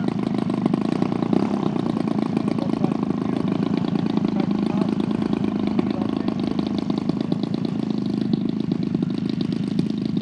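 Engine of a large-scale RC Super Decathlon model plane running steadily, a continuous rapid patter of firing pulses with no change in pitch.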